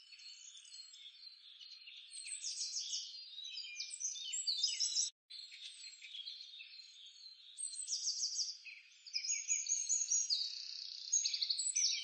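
Several birds chirping and trilling at once, many overlapping high calls and quick falling notes, breaking off for an instant about five seconds in.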